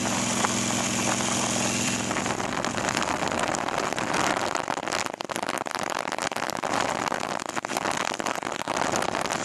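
Motorcycle engine running during a ride, with wind rushing over the microphone throughout.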